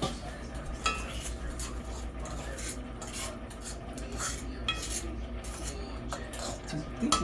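Metal kitchen utensils clinking and scraping against pots and pans during cooking: a run of light clicks and scrapes, with two brief ringing clinks, one about a second in and one just before five seconds.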